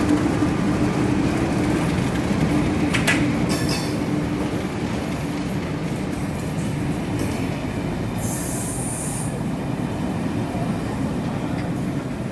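Train moving slowly through the station: a steady rumble of wheels on rail that slowly eases, with a short squeal about three seconds in and a brief burst of hiss around eight seconds.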